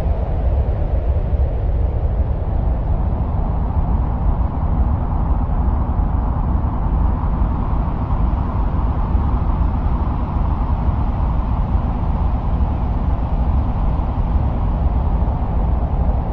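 Steady, low wind-like rumble with a hiss above it that slowly swells and fades, presented as the sound of winds on Mars.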